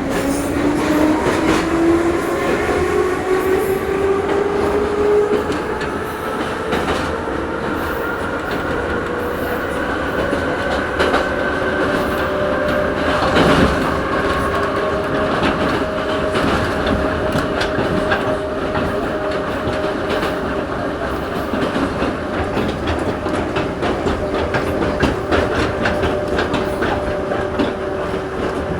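Ezh3 metro train accelerating and running through a tunnel: the traction-motor whine rises in pitch for the first few seconds, then holds steady. Wheels click over the rail joints throughout, with a heavier knock about halfway through.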